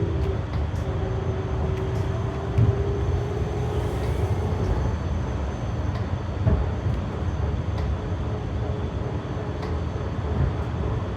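Tram running along the track, heard from on board: a steady low rumble with a motor whine that fades out about five seconds in, and a few sharp clicks.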